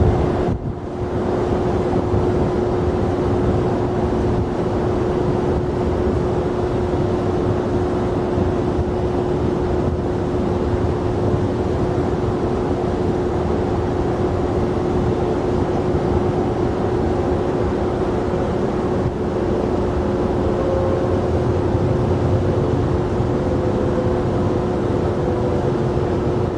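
Jet airliner engines running steadily: a broad, even rushing noise with a constant hum that holds one pitch throughout.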